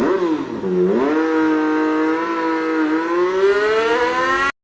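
Motocross dirt bike engine running under throttle. Its pitch drops sharply in the first second, holds steady, then climbs slowly as the bike accelerates. The sound cuts off abruptly near the end.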